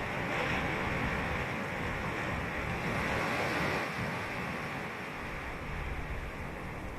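Ocean surf breaking and washing up the beach, a hissing wash that swells over the first few seconds and then eases, over a steady low rumble of the sea.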